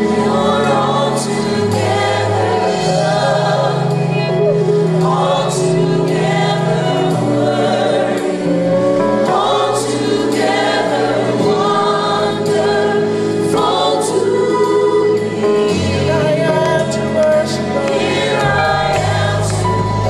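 Live gospel music: a choir singing over a band with bass and cymbals.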